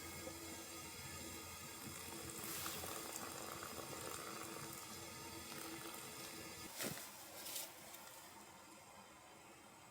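Water boiling in a pot on a wood stove, a steady bubbling rumble that stops with a sharp knock about seven seconds in, followed by a second short clatter.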